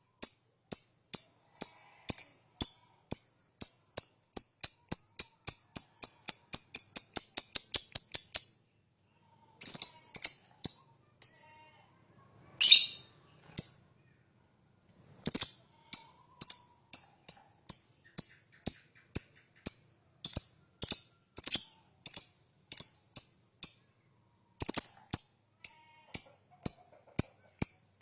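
Lovebird calling in a long series of sharp, high-pitched chips (ngetik), which speed up into a rapid chattering run (ngekek) about six to eight seconds in. It breaks off twice and then goes on at an even pace of about two to three chips a second.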